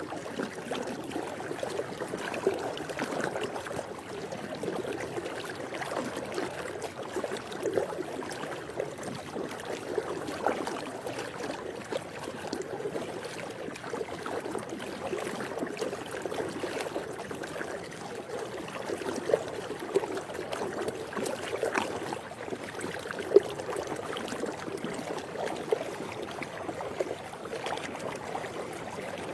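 Swimming-pool water: a steady wash of moving water with small, irregular splashes throughout.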